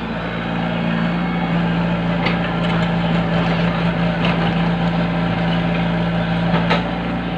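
An engine running steadily at an even pitch, with a few short knocks over it.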